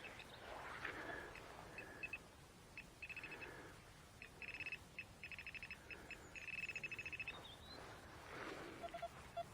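Faint high-pitched electronic beeping from a metal detecting pinpointer, coming in rapid pulsed bursts that grow longer as the probe is held over a metal target in the soil, with a few short lower beeps near the end.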